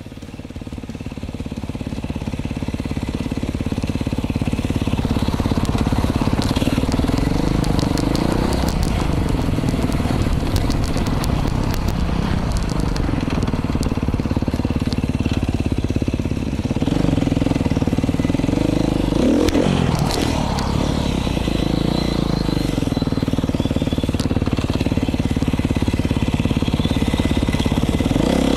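Beta 500 RRS dirt bike's single-cylinder four-stroke engine running through an FMF exhaust while being ridden, the revs rising and falling again and again with throttle and gear changes. It builds up over the first few seconds and eases off briefly about halfway through.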